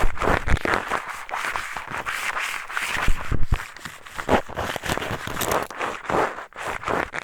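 Eyeglasses used as an ear pick, scraping and rubbing inside the ear of a binaural microphone: close, irregular scratching strokes with occasional low bumps.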